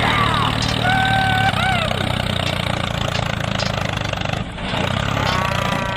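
An engine running steadily at a low, even pitch, as on a vehicle ticking over. Short whistle-like tones that glide up and down sound over it a few times.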